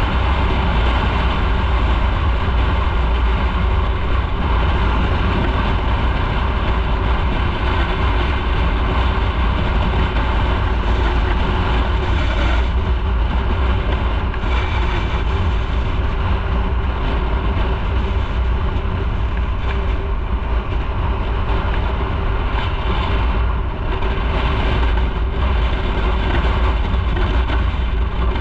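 Motorcycle running at a steady cruise, its engine under a continuous rumble of wind and road noise.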